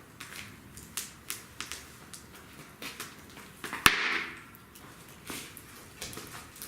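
Wood fire crackling, with scattered small pops and one sharp, loud crack about four seconds in.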